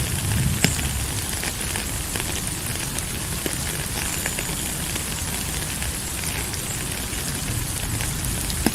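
Steady rain falling, a constant hiss scattered with small drop ticks, with a sharper tick about a second in and another near the end.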